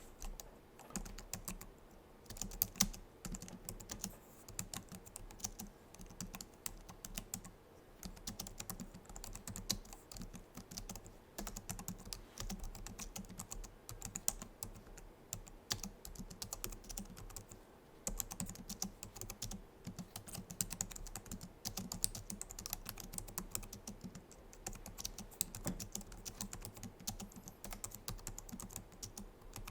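Continuous typing on a Logitech MX Keys keyboard, its low-profile scissor-switch keys clicking in quick runs with brief pauses between them.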